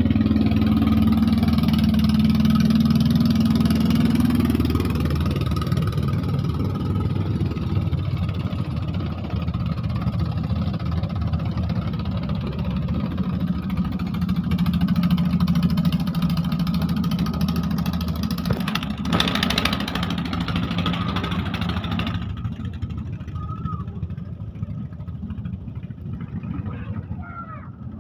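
Engine of a klotok, a wooden river boat, running steadily. Its note drops after about five seconds, a rush of noise comes in about two-thirds of the way through, and the sound fades near the end.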